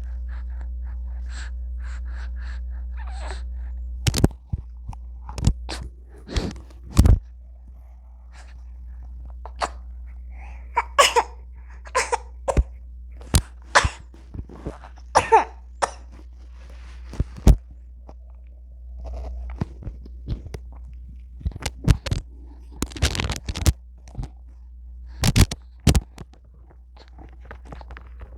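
A baby's short, scattered coughs and sneezes, with a few brief vocal noises, over a steady low hum.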